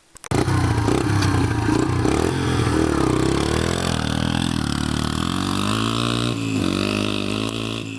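Dirt bike engine running and revving, its pitch slowly rising and falling. It cuts in suddenly just after the start and fades near the end.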